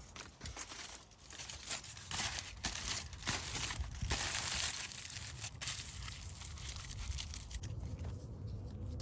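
Crinkling and rustling handling noise, irregular and loudest from about two to five seconds in, then dying down to a low rumble.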